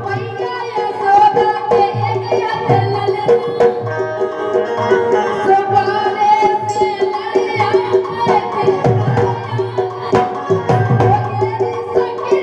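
Indian folk music: hand drums beat a steady rhythm under a held, sustained melodic line.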